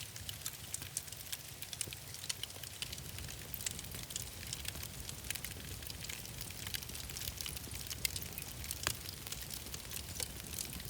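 Wood fire crackling in a fireplace: irregular sharp pops and snaps over a low steady rumble, with one stronger snap about nine seconds in.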